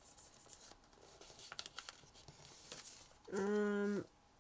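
Sheet of origami paper being handled and creased, faint crinkles and short rustles, then a steady hummed 'mmm' from a voice near the end.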